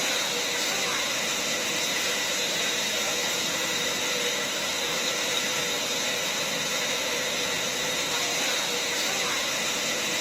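A steady, even hiss with a few faint constant high tones running through it.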